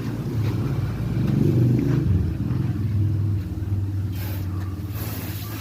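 A motor vehicle's engine running close by, a low steady drone that swells about a second and a half in and then holds.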